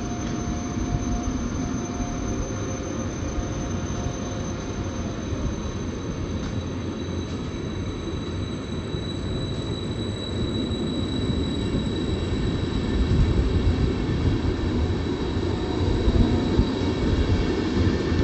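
Train running past on the rails: a steady rumble that grows louder in the second half, with thin high whining tones over it.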